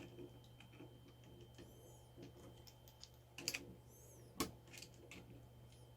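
Faint, scattered plastic clicks from a mechanical keyboard being handled as a desoldered switch is worked loose, with two sharper clicks about three and a half and four and a half seconds in.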